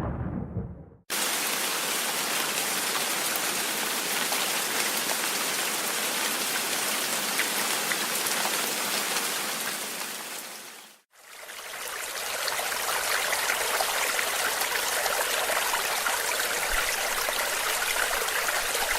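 Steady, heavy rain, after a deep rumble of thunder that dies away in the first second. The rain starts suddenly about a second in, fades out around the middle, and fades back in for the rest.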